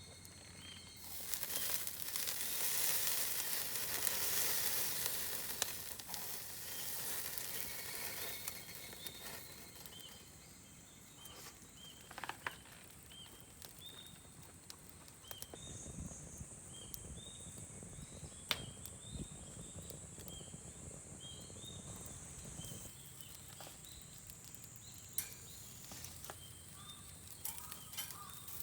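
Something sizzling on a hot pan over a Swedish torch log fire: loud from about a second in, dying down after several seconds, with a few sharp knocks later. Behind it runs a steady high insect drone and a short chirping call repeated every second or so.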